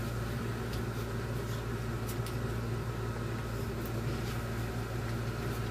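Steady low mechanical hum with an even hiss, the running background noise of a small workroom, with a few faint ticks.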